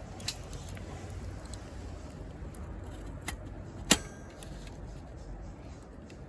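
A few sharp clicks over a low steady background, the loudest about four seconds in, with a brief metallic ring after it.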